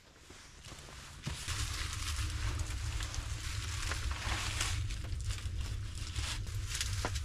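Rain falling steadily: an even hiss that comes in about a second in, over a low rumble.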